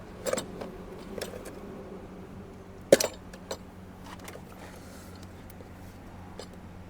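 A few light clicks and taps of a tool working at a sealant-bonded ECU case to free its circuit board, with one sharper click about three seconds in.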